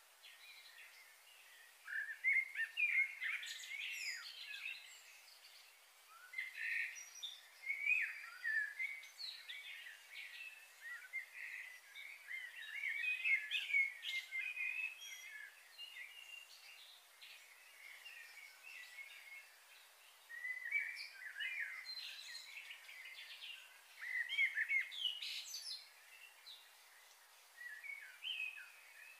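Small birds chirping and twittering in several bursts, with short quiet spells between, over a faint steady hiss.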